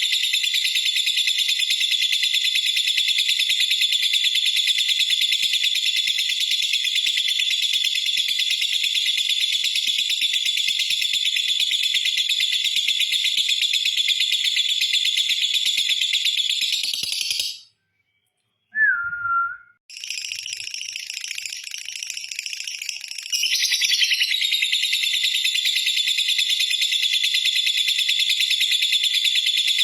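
Lovebird giving its long, unbroken, high-pitched trilling chatter (ngekek panjang). The trill breaks off about 18 seconds in, leaving a short single note, then resumes, softer at first and at full strength again a few seconds later.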